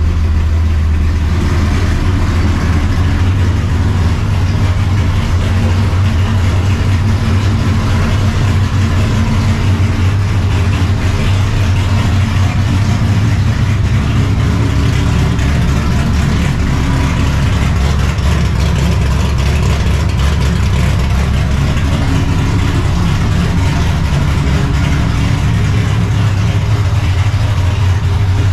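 Straight-piped, cammed and Procharger-supercharged 1999 Ford Mustang GT with a 5.4-litre V8 running loud with a steady, deep rumble through its open exhaust.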